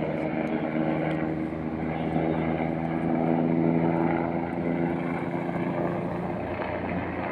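Steady engine drone holding one pitch, its tone thinning out near the end.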